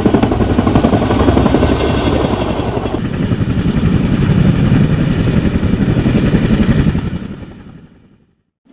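Boeing CH-47 Chinook tandem-rotor helicopter running, its rotors chopping fast under a steady high turbine whine, fading away near the end. A short whoosh comes right at the end.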